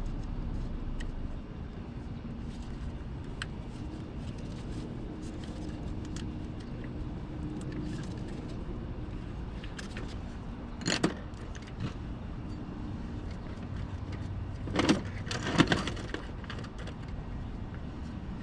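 Hand tools and metal parts clinking and rattling during work in a car's engine bay, with two louder bursts of clatter about eleven seconds in and again a few seconds later, over a steady low hum.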